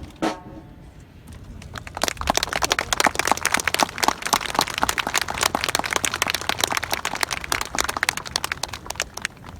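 Outdoor crowd applauding, the clapping building up about a second and a half in and dying away just before the end.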